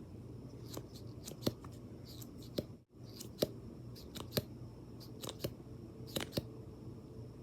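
Close-up ASMR clicks and snips from handling makeup tools: about a dozen sharp, irregular clicks over a faint steady hum, briefly cut out about three seconds in.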